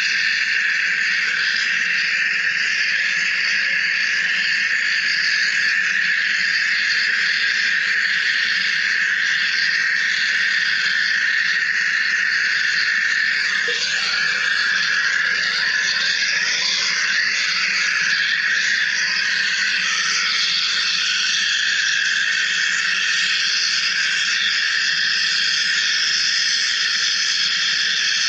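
Wire EDM (electrical discharge) machine cutting, a steady hiss that holds at one level.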